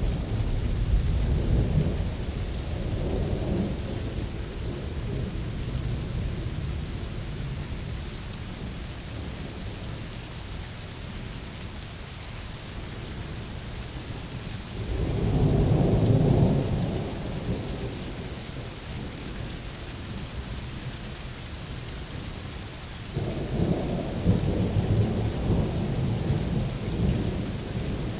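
Thunderstorm: steady rain with rolling thunder. A rumble fades out over the first few seconds, a louder peal swells about halfway through, and another long rumble starts near the end.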